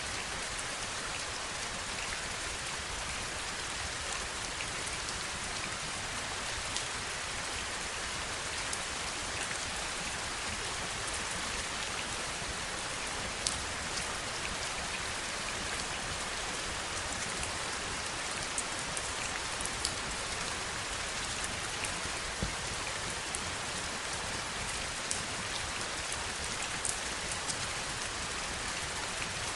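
Heavy rain falling steadily as an even hiss, with scattered sharper taps of individual drops at irregular moments, the loudest about halfway through.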